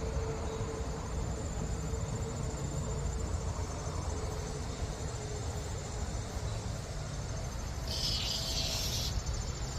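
Insects trilling in the garden: a steady, high, rapidly pulsed trill that carries on unbroken, with a brief louder raspy burst about eight seconds in.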